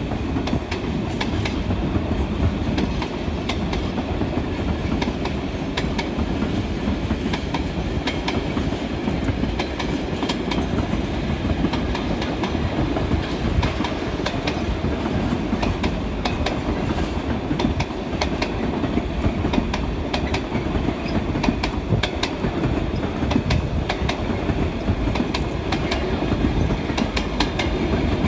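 Container freight train's flat wagons rolling past: a steady rumble of steel wheels on the rails, with frequent sharp clicks as the wheels run over rail joints.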